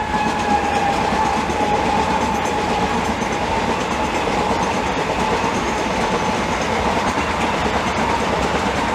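Class 387 Electrostar electric multiple unit running past at close range: steady wheel-on-rail noise with a clear whine that sinks slightly in pitch.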